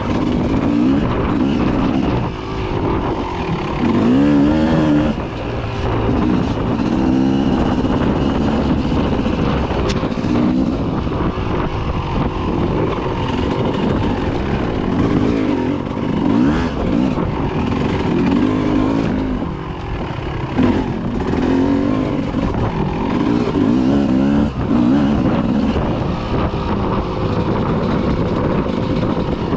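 Dirt bike engines revving up and down as they ride, the engine pitch rising and falling again and again.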